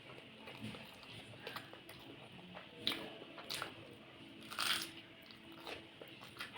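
A person eating close to the microphone: chewing with a few short, crisp crunches from bites of food, the loudest about three and four and a half seconds in.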